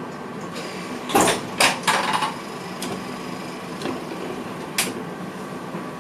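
Running noise inside the cab of a VIRM double-deck electric train: a steady hum with sharp clacks, a cluster of them about a second in and a single one near the end.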